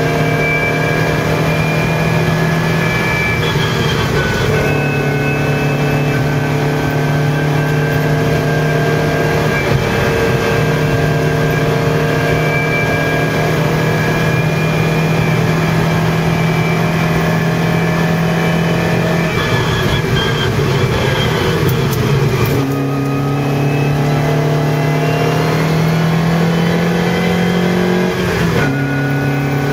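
Lotus Europa's four-cylinder engine heard from inside the cabin, running hard under load up a steep climb. Its pitch breaks and changes several times as the driver shifts gears.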